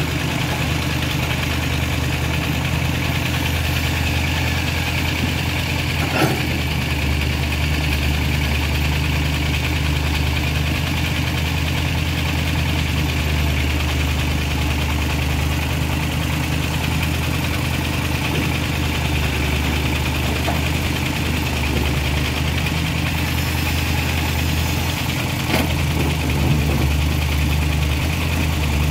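Vehicle engine idling steadily, with a single short knock about six seconds in.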